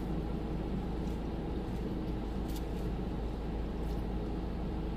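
Steady low rumble and hum of a car cabin with the engine running, with a faint click about two and a half seconds in.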